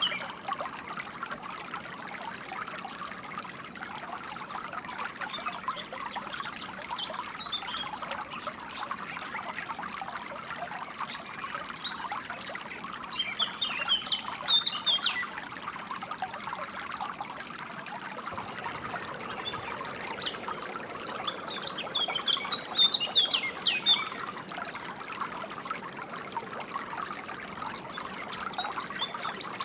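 Water trickling steadily over stones in a small stream, with songbirds chirping in short high bursts now and then, loudest about halfway through and again around three-quarters of the way through.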